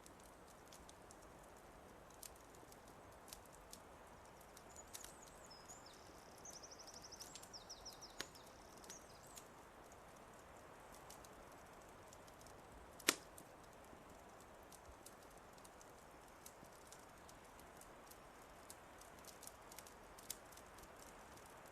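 Wood fire crackling with scattered sharp pops and one loud pop about thirteen seconds in, over a soft steady hiss. A bird sings a short, rapid high trill about five to nine seconds in.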